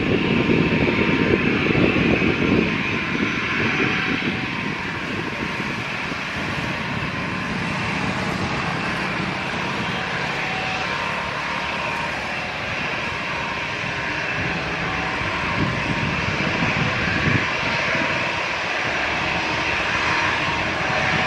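Airliner engines running with a steady, loud noise, heaviest in the first few seconds and then evening out.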